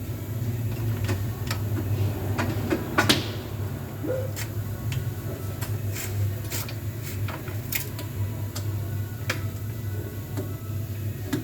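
Scattered clicks and knocks of hand work on a Scania truck door and its power window mechanism, over a steady low hum.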